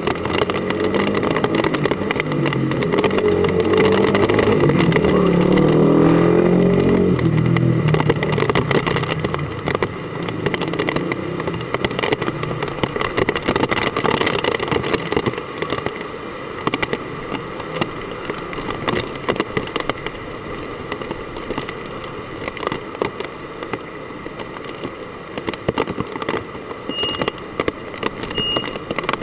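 Heavy typhoon rain pelting down in a dense, crackling patter. A motor vehicle's low engine rumble swells and fades over the first eight seconds.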